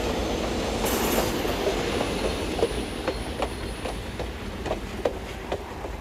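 A train rolling past, its wheels clicking regularly over the rail joints about two or three times a second as it slowly fades away.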